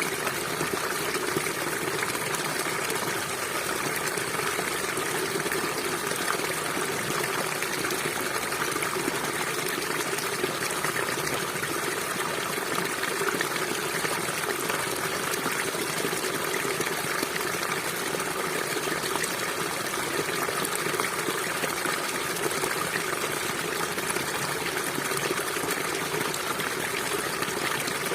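River water flowing and rushing steadily, a constant even wash with no pauses or changes.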